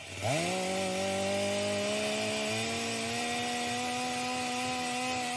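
A chainsaw engine revving up and running at high speed. Its pitch starts about a quarter second in, climbs quickly, then creeps slowly higher and holds.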